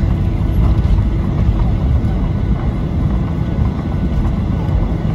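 Cabin noise inside a Boeing 737-800 on the ground after landing: a steady low rumble from its CFM56 engines at idle and the airframe, with no distinct events.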